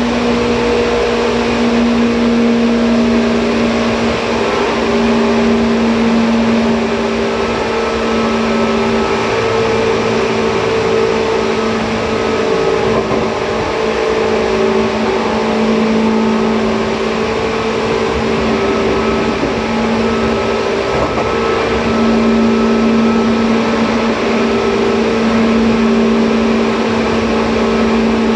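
Seibu 2000 series electric commuter train running at a steady speed, heard from inside the car: a steady motor hum over continuous wheel and track noise.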